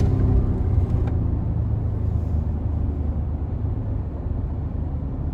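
Ford F-150 2.7 EcoBoost twin-turbo V6 through an MBRP straight-through dual exhaust with the resonator deleted, running with a low, steady rumble as the revs settle.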